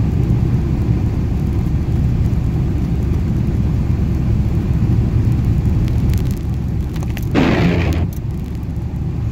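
Steady low rumble of a car's engine and tyres heard from inside the cabin while driving on a snowy road, with a short louder rushing sound about seven seconds in.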